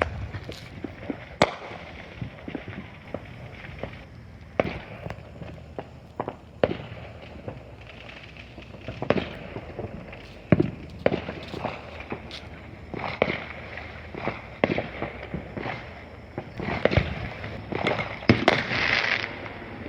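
Consumer fireworks going off: irregular bangs and pops one after another, with a dense stretch of crackling and hiss near the end.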